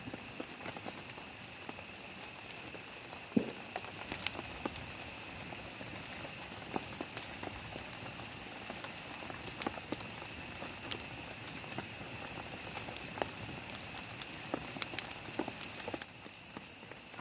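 Rain on a plastic tarp shelter: a steady patter with many scattered sharper drops. A steady high-pitched tone sits underneath, and there is a single louder knock about three seconds in.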